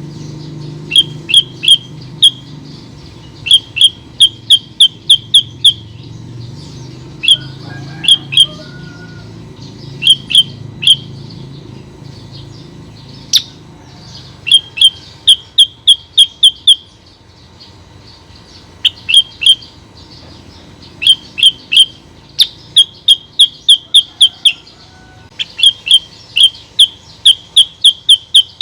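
Female kutilang sutra bird calling: loud, sharp chirps in quick runs of two to seven notes, separated by short pauses. It is a lure call meant to draw other kutilang sutra into calling. A faint low hum underneath fades out about halfway through.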